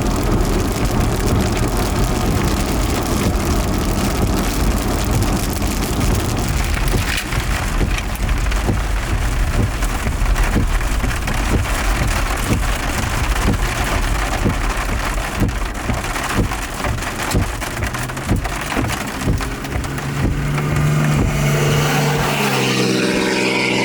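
Heavy rain pelting a moving vehicle, with constant road and engine noise and many sharp taps of drops striking the body and windshield. A steady low hum with a clear pitch comes in about 20 seconds in.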